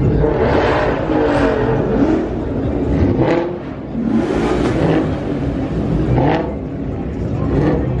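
Muscle-car engines revving at a car meet, their pitch rising and falling several times over a low steady rumble, with a rushing noise about four seconds in.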